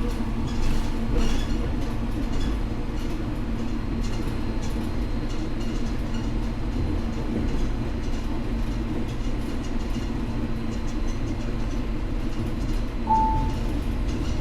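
Steady running rumble and hum of a train car heard from inside while under way, with a brief high tone about 13 seconds in.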